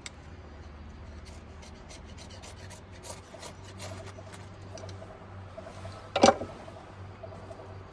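Wood being scraped and rubbed in short, irregular strokes, with one sharp, loud knock about six seconds in.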